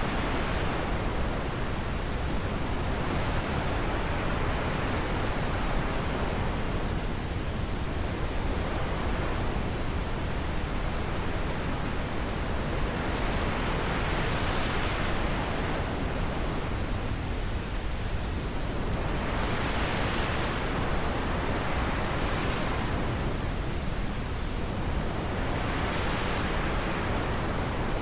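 Wind blowing steadily, swelling into stronger gusts every few seconds.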